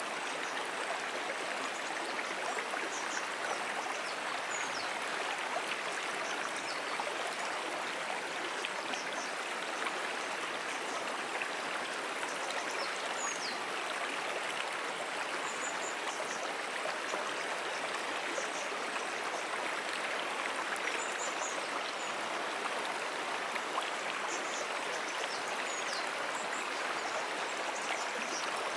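Brook water flowing in a steady, even rush, with faint short high chirps now and then.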